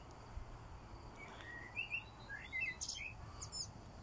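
A small bird calling in a quick series of short chirps and whistles, some rising and falling, starting about a second in, over a faint low rumble of wind on the microphone.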